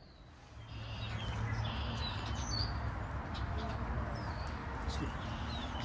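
Small birds chirping now and then over a steady low rumble and hiss of outdoor background noise that comes in about half a second in.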